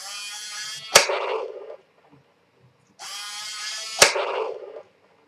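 RC Tiger tank model firing its cannon twice, about three seconds apart: each time a buzzing sound of about a second, then a sharp shot with a short fading tail.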